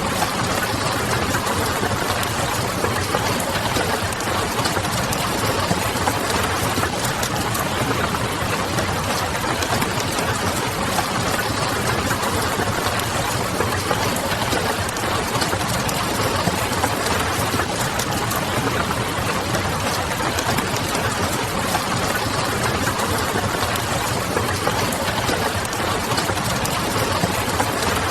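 Wood fire crackling in quick, irregular small pops over a steady hiss of rain pattering, with a low steady hum underneath.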